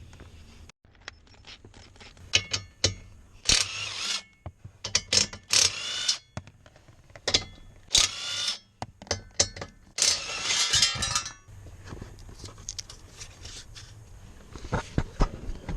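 Irregular clicks, ratcheting and scraping rasps from hand work on plastic dash parts during a blend door actuator replacement.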